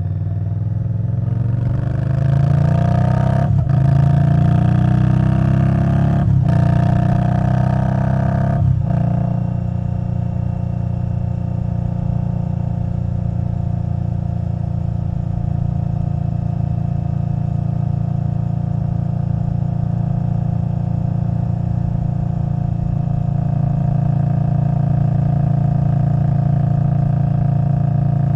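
Indian Scout Bobber Twenty's V-twin engine, through a V&H Twin Slash exhaust, accelerating hard. Its pitch rises through three gears, with a brief break at each upshift in the first nine seconds. It then settles into a steady cruise.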